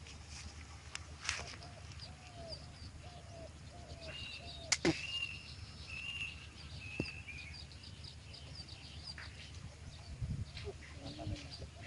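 Birds calling: a run of short, arched calls about two a second, then thinner high calls, over a steady low rumble. A sharp click sounds just under five seconds in.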